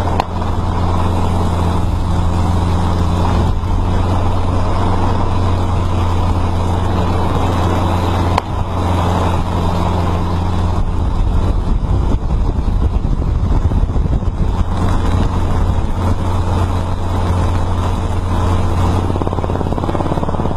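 A motor vehicle's engine running steadily with a low drone, turning rougher and less even about halfway through.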